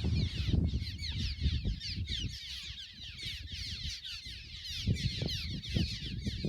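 A flock of cliff swallows chattering: many overlapping short, high, downward-sliding chirps in a continuous stream, with a low rumble underneath.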